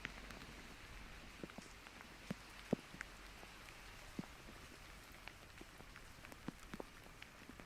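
Light rain falling, a steady soft hiss broken by scattered single raindrop taps, with one sharper tap between two and three seconds in.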